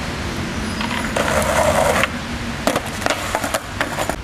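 Skateboard on wet pavement: a short rush of wheels rolling, then a quick cluster of sharp clacks as the board hits the ground, over steady street noise.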